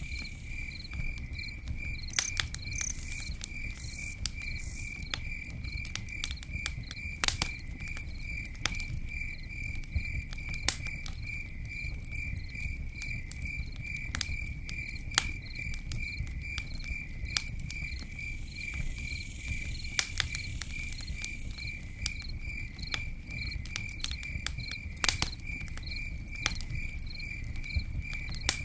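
Campfire burning with a low rumble and scattered sharp pops and crackles, a few of them louder, over a cricket's steady, evenly pulsed chirping.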